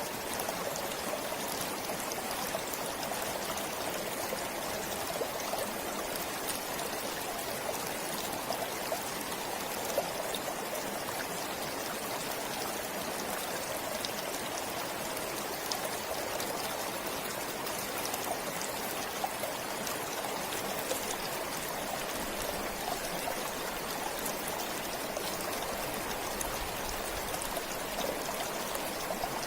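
Forest stream flowing steadily, water running and trickling over stones.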